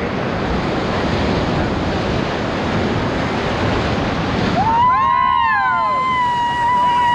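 Rushing white water of a river rapid under a raft. About five seconds in, several rafters whoop, and one long held yell carries on to the end.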